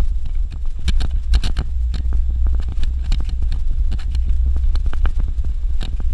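Suzuki Jimny driving on a dirt road: a steady low rumble from the vehicle with many irregular clicks and knocks from stones and bumps under the tyres.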